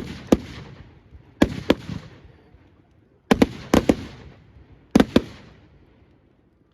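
Firework display shells bursting: four volleys of two or three sharp bangs, about every one and a half seconds, each followed by a fading rumble of echo.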